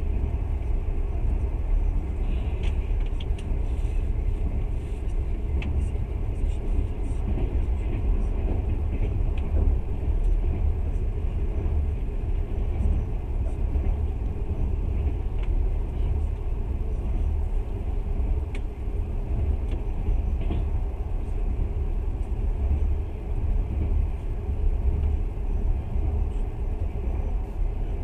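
Passenger train running steadily, heard from inside the carriage as a continuous deep rumble of wheels on rails, with scattered faint ticks and rattles.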